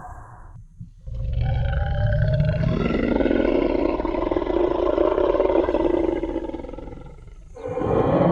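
A sound-effect roar of a Tyrannosaurus rex: one long, deep roar with many overtones starting about a second in and lasting roughly six seconds before fading out.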